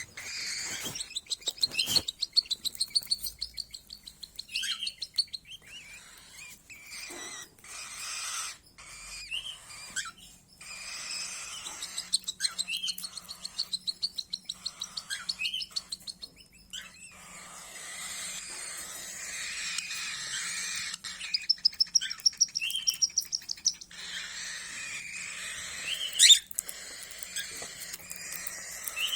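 Canaries singing: fast rattling trills and short chirps, repeated again and again.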